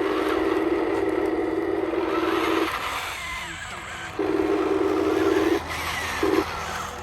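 Small electric motor of a radio-controlled construction model whining as it runs in bursts: a steady hum that cuts in and out three times as the controls are worked.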